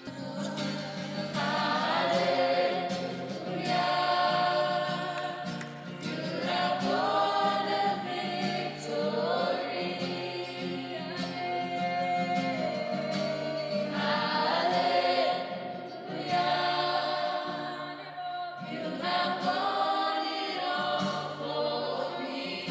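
A choir singing a slow gospel hymn in long phrases over a steady, sustained low accompaniment.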